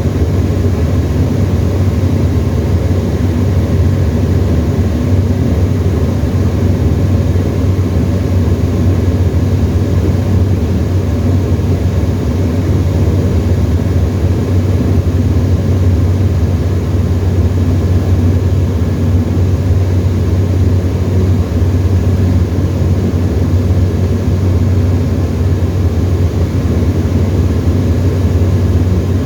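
Tecnam ultralight's engine and propeller droning steadily at constant power, heard from inside the cockpit.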